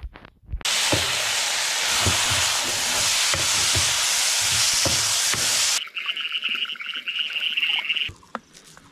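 Food sizzling loudly as it is stir-fried in a wok, with the knocks of the stirring utensil against the pan; it cuts off suddenly about six seconds in. A high, fast-pulsing trill follows for about two seconds.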